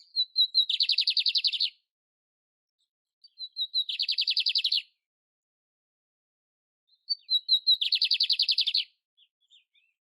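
Canário império singing the same phrase three times, a few seconds apart. Each phrase is a few short high notes that run straight into a fast, even trill about a second long.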